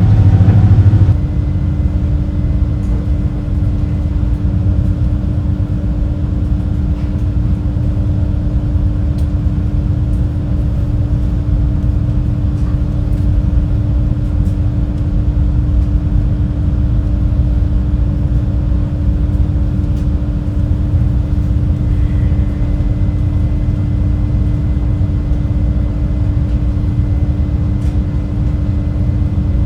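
Engines of the Super Jet high-speed passenger boat running steadily under way, heard inside the cabin as an even rumble with a constant low hum.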